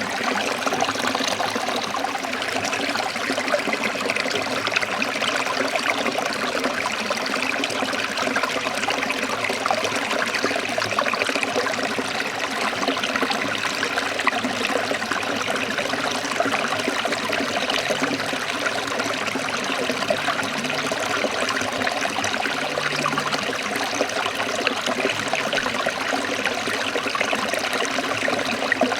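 Forest stream trickling steadily, an even rush of running water with no change.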